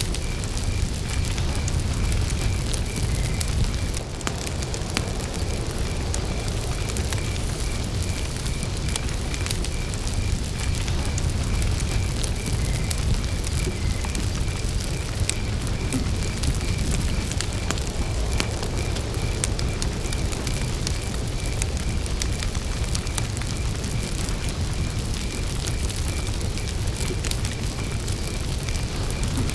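Campfire burning, with scattered crackles and pops over a low steady rumble of the flames. A cricket chirps all through in an even, high-pitched pulse.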